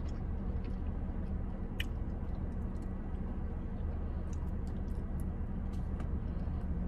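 A person chewing a mouthful of bourbon chicken, with faint scattered mouth clicks, over a steady low hum inside a car.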